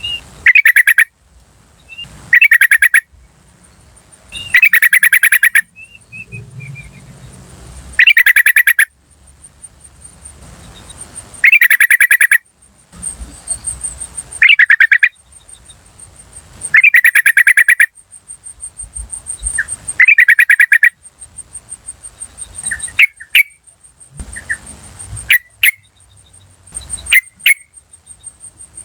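Yellow-vented bulbul (trucukan) calling. Loud bursts of rapid chattering 'cuk cuk cuk' notes, each about a second long, come every two to three seconds, giving way to shorter single sharp calls near the end. A faint, steady, high-pitched insect trill runs underneath.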